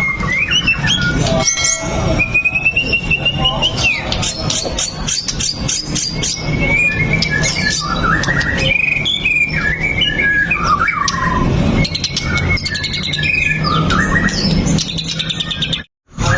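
White-rumped shama (murai batu) singing a long, varied run of whistles, with rising and falling phrases, quick repeated notes and sharp clicking sounds, over a steady low background noise. The sound cuts out for a moment near the end.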